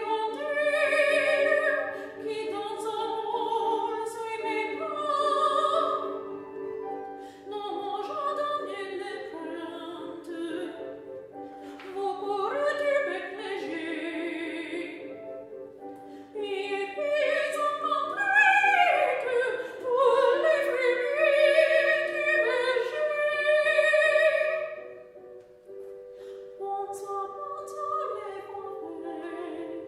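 A classically trained female voice sings a French art song in operatic style over piano accompaniment, with long, swooping phrases. About 25 seconds in the voice stops, leaving the quieter piano.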